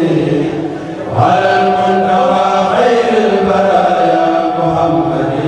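A Senegalese Mouride kourel, a group of voices chanting a khassida together in long held notes, with a new phrase starting about a second in.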